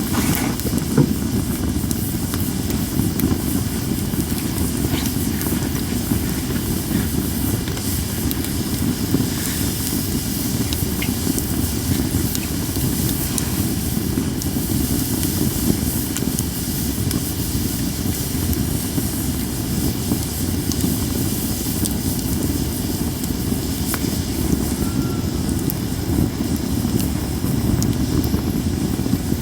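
Japanese cedar campfire burning with a steady low rushing and hissing and a few sparse faint crackles.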